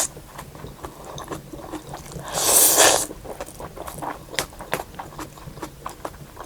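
A person eating noodle soup: one loud slurp about two seconds in, with small chewing clicks throughout.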